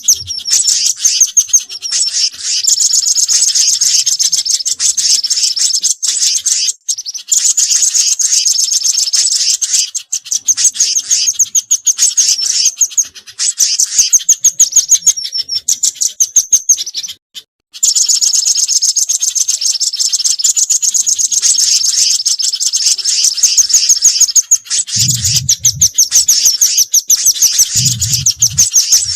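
Bird-lure recording of mixed small songbirds, such as the velvet-fronted nuthatch and spiderhunter, chirping loudly in rapid, high-pitched trills. There are brief breaks about 7 and 17 seconds in, and two short low sounds near the end.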